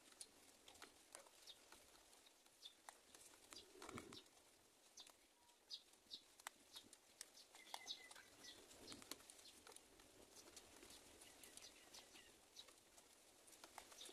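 Faint birds chirping: scattered short, high chirps and ticks, coming irregularly, sometimes several close together.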